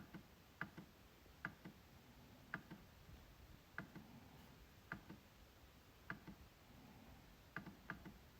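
MacBook trackpad being clicked at an uneven pace of about one click a second, each click a sharp tick followed closely by a softer one, with two clicks in quick succession near the end.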